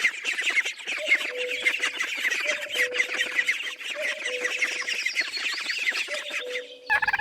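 A group of goslings peeping: many short, high chirps overlapping in a fast, continuous chatter, with a low steady hum coming and going behind them.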